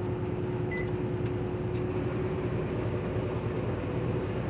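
Galanz microwave air fryer running with a steady hum, over the constant drone of the truck running in the cab. A few faint clicks come in the first two seconds.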